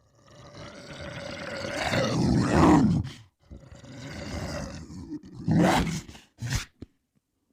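Kothoga movie-monster roar sound effect: a roar swells over about three seconds and breaks off, then a second roar builds to a loud peak and is followed by two short bursts.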